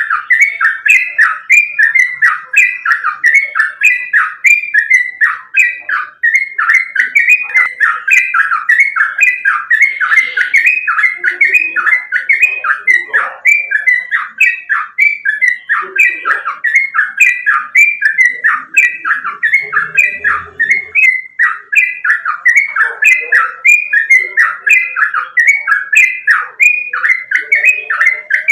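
Yellow-vented bulbul (trucukan) singing loud, short, bubbly notes in a fast unbroken run, about two to three a second, as a tutor recording meant to set a caged bird singing.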